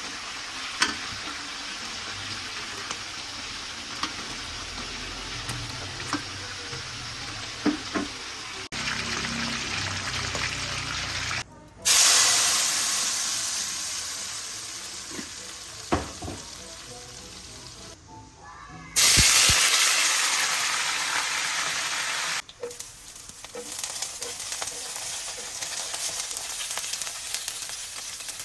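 Food frying and sizzling in hot oil while being stirred, with occasional sharp clicks of a utensil on the pan. Twice the sizzle suddenly grows loud and then fades over a few seconds.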